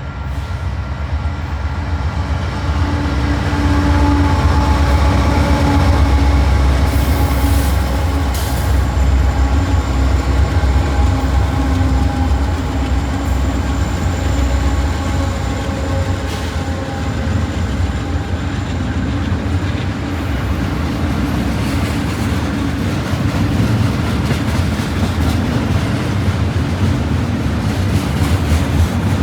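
A Union Pacific intermodal freight train passing: a loud, steady low rumble with engine tones from the diesel locomotives for the first part, giving way to a noisier rolling clatter of wheels on the rails.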